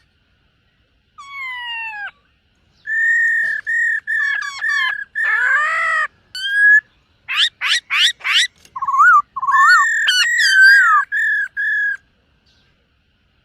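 Black-throated laughingthrush singing a varied whistled song: a falling whistle, then a run of clear level whistles broken by quick rising sweeps and warbled phrases, with short gaps between them.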